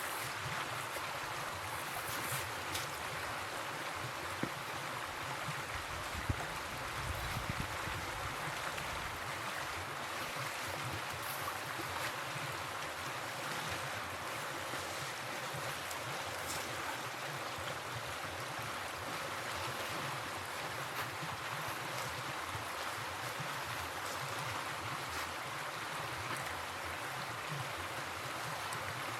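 River water flowing with a steady rushing sound, with a couple of faint clicks over it.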